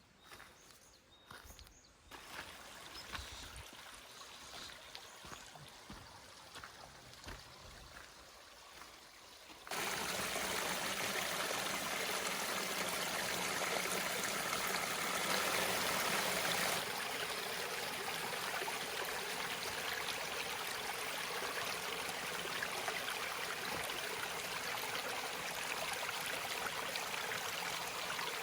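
Valley stream rushing over rocks, a steady loud rush of water. It is faint for the first part and comes in suddenly about ten seconds in, then holds steady.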